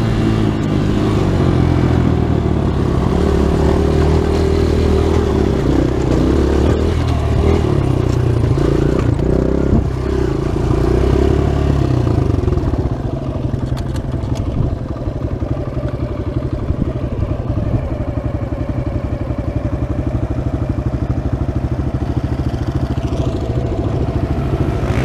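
Dirt bike engine running under changing throttle, then settling about halfway through into a lower, steadier running with an even pulse.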